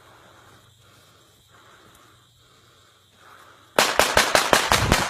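Faint rustling, then near the end a rapid burst of about ten sharp, loud bangs in just over a second: gunfire.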